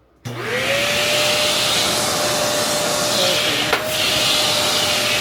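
Kenmore Elite upright vacuum cleaner switched on: the motor spins up in about half a second to a steady whine over a rush of suction noise and keeps running. A brief knock comes about three-quarters of the way through.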